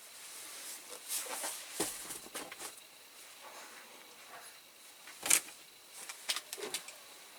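Caustic soda solution fizzing faintly on diecast parts as it strips their paint: a soft hiss with scattered small crackles of bubbles, and one sharper click about five seconds in.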